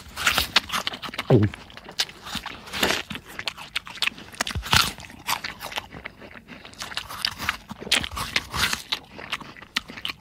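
Exaggerated cartoon-style chewing of an apple: irregular wet, crunchy bites and chomps. A short falling pitched sound comes about a second in.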